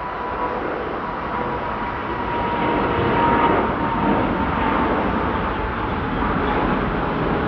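Jet airliner engines at takeoff power: a rushing noise that grows louder over the first three seconds or so and then holds, with a thin steady whine that fades out about halfway through.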